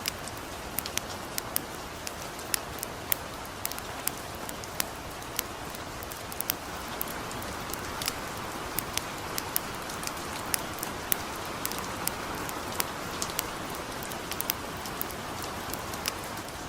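Gentle steady rain with a wood campfire crackling: a soft even hiss of rain under sharp, irregular pops from the fire, about two or three a second.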